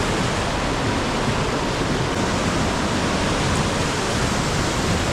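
Steady, loud rush of a waterfall cascading down a rock chute, running high after heavy rainfall.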